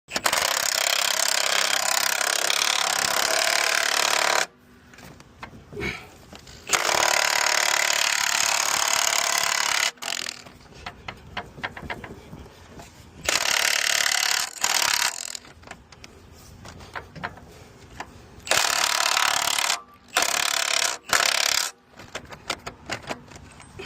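Pressure washer spraying in long bursts of loud hiss, several seconds each, with short pauses between, as parts of a mini skid steer's undercarriage are washed off.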